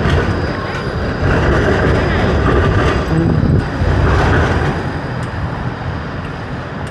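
Passing vehicle noise, louder for the first few seconds and easing off toward the end.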